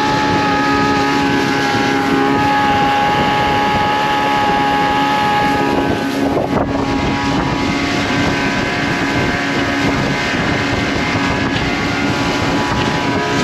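Motorboat engine running steadily at speed, about 20 miles an hour, with wind noise on the microphone.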